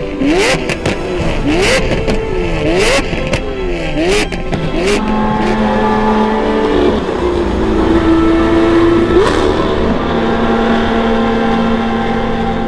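Lamborghini Aventador's V12 with a Novitec Torado exhaust revving hard several times in quick rising sweeps, sharp exhaust pops and bangs on the lift-off, then holding steadier revs in the second half with one more bang.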